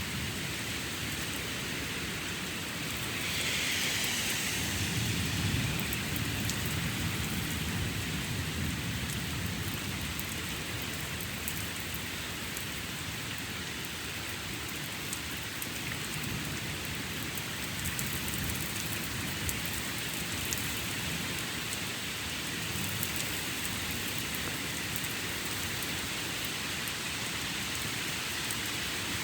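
Steady rain during a thunderstorm. A low rolling rumble of thunder comes in about four seconds in and dies away over several seconds, with fainter rumbles later.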